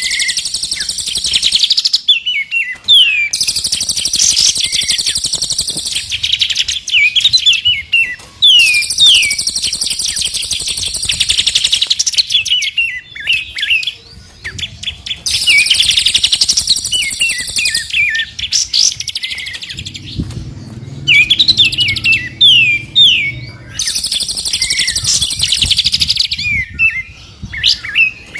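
Several songbirds singing loud, continuous songs of rapid trills and quick rising and falling whistles, in phrases a few seconds long separated by short pauses. It is a combined recording of three birds' songs.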